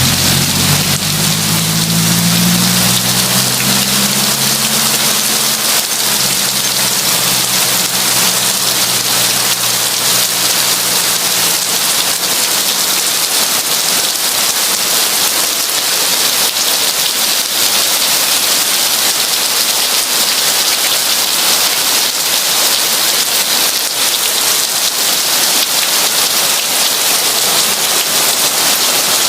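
Heavy rain falling in a steady, dense hiss. A low rumble underneath fades away over the first several seconds.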